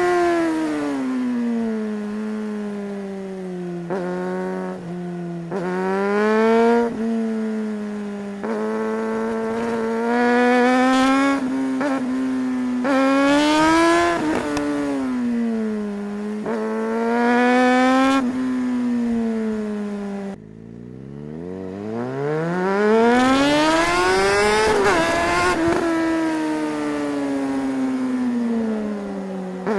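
Suzuki GSR 600's inline-four engine revving hard through the gears, its pitch climbing and dropping back with each shift, over and over. About two-thirds of the way in the revs fall to a low rumble, then climb in one long rise before it shifts on again.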